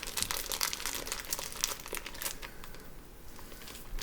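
Meat packaging crinkling and rustling in the hands as ground beef is worked out of its package: dense crackling for the first two seconds or so, then thinning and quieter.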